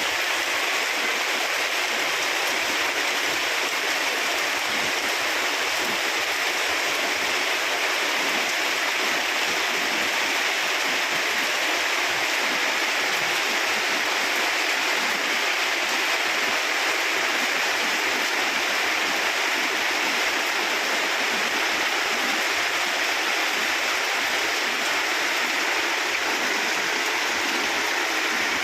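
Steady rushing of water, an even hiss with no break.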